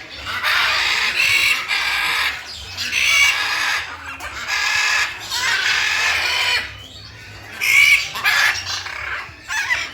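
Birds, fowl-like, calling in a series of loud bursts about a second long each, with short gaps between them.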